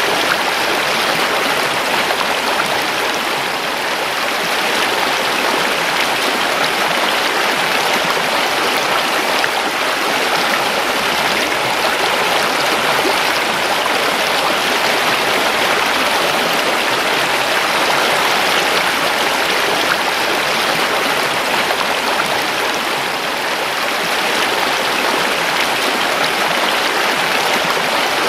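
A river flowing over rocks: a steady, even rush of running water.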